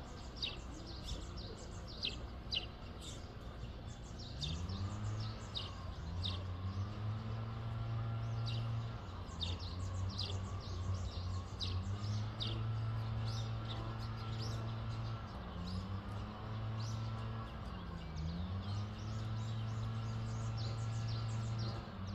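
Small birds chirping in short repeated calls, over a low steady machine-like hum that comes in about four seconds in and dips and rises in pitch a few times.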